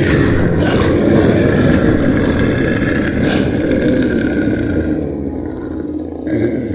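Dinosaur roar sound effect: one long, loud, rough roar that weakens near the end.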